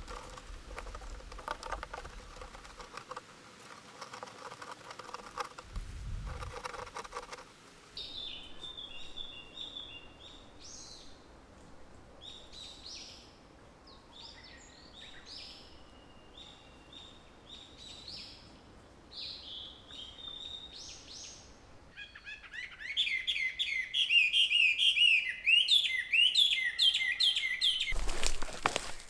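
Wild birds singing and chirping, with short scattered calls at first and a louder run of quick, repeated notes near the end. Indistinct rustling noise comes before the birds start.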